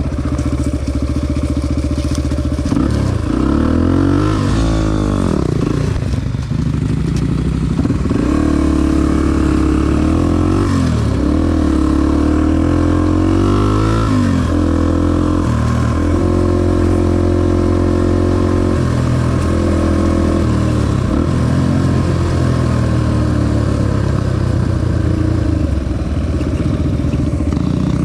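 Honda XR250 dirt bike's single-cylinder four-stroke engine under way, its revs rising and falling several times in the first half as the throttle is worked, then holding steadier.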